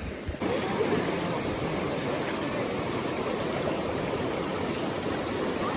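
Steady rush of a waterfall and stream water, getting suddenly louder about half a second in.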